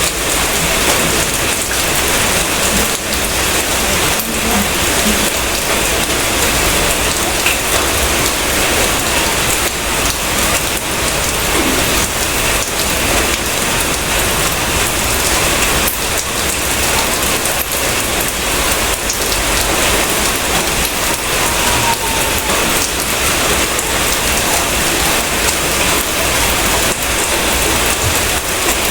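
Steady, loud rain falling: a dense, even hiss with a constant patter of drops.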